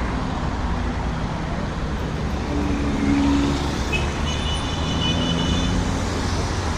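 Road traffic on a busy city street: a steady rumble of engines and tyres from passing vehicles, with one vehicle's engine louder about three seconds in. A high-pitched squeal runs for about two seconds in the middle.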